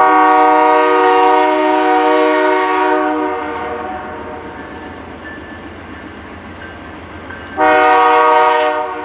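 CN freight locomotive's air horn: a long blast of about three seconds, then a shorter blast of just over a second near the end.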